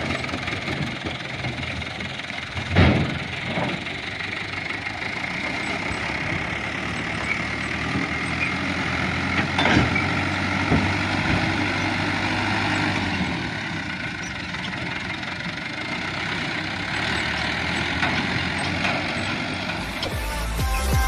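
Toyota Dyna dump truck's diesel engine running steadily, with a sharp bang about three seconds in and another about ten seconds in.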